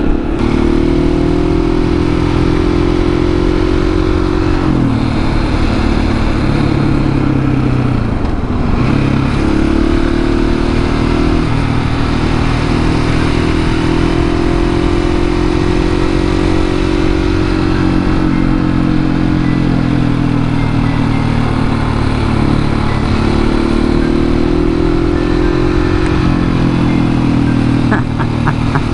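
701 supermoto motorcycle's single-cylinder engine under way through a series of curves. Its pitch drops several times as it backs off and climbs again as it accelerates out, over a steady rush of wind and road noise.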